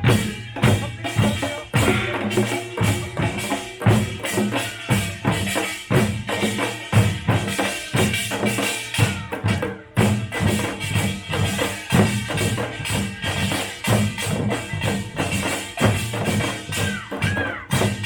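Pungmul (Korean farmers' band) percussion playing live: drums struck in a fast, continuous rhythm with clanging, ringing small gongs over them.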